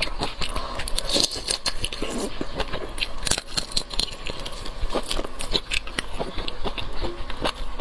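Shrimp being bitten and chewed, a dense run of irregular crackles and clicks.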